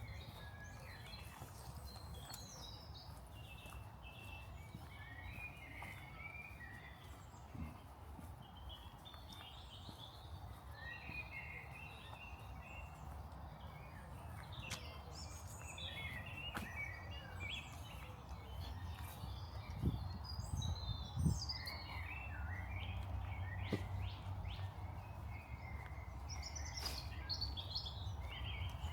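Small songbirds chirping and twittering on and off throughout, over a steady low rumble of outdoor background noise. Two brief soft knocks come about two-thirds of the way through.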